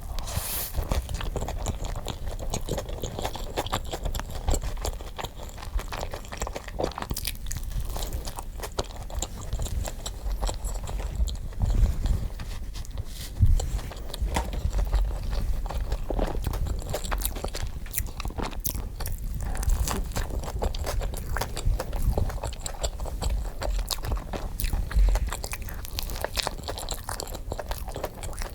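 Chewing and biting crunchy food, a dense, unbroken run of crunches and clicks, played back sped up.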